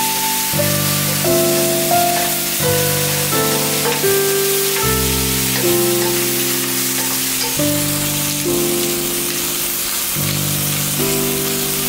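Sausages and vegetables sizzling with a steady hiss as they are stir-fried in a buttered frying pan, under background music of slow, held chords.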